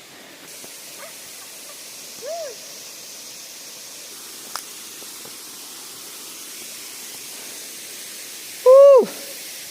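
Steady hiss with two hooting calls over it: a short faint one about two seconds in, and a loud one near the end that rises and then drops sharply in pitch.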